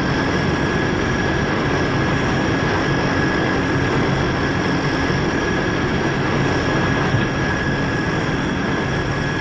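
C-130 Hercules turboprop engines running steadily: a loud, even rush with a constant high whine held over it. A single small click sounds about seven seconds in.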